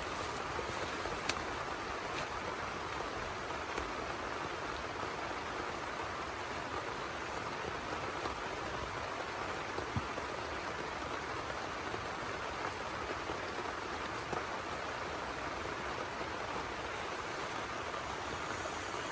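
Heavy rain falling steadily, an even hiss with a few louder single drop ticks, including one about a second in and one about ten seconds in.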